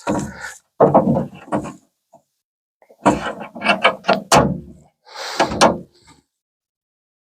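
Metal knocks, clunks and scraping from a truck door's window channel and regulator parts being handled and fitted, in several short bursts with a cluster of sharp knocks about halfway through.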